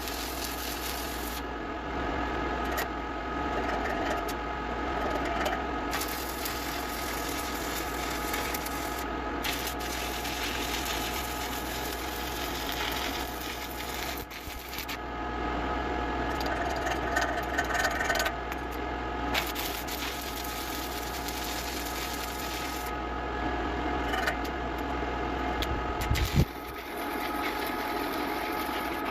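Shielded metal arc (stick) welding: a crackling, hissing arc over a steady hum, the high crackle dropping away in several stretches. One sharp knock near the end.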